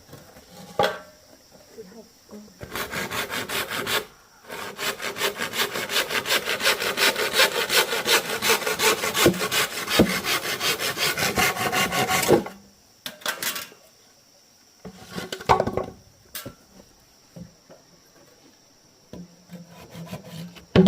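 Hand saw cutting through bamboo in a fast, steady back-and-forth rhythm, with a short break a few seconds in. The sawing stops about two thirds of the way through, followed by a few light knocks.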